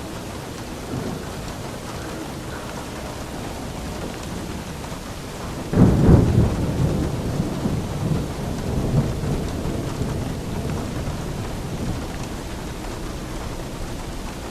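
Steady rain with a sudden clap of thunder a little under halfway through, rumbling low and fading slowly over several seconds.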